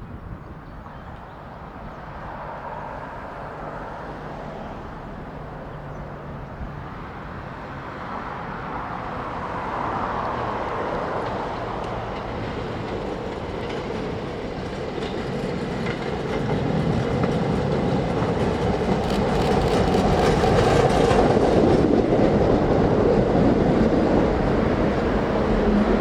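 Staten Island Railway electric train approaching on the rails, its rumble growing steadily louder, with a run of wheel clicks over the rail joints as it draws close.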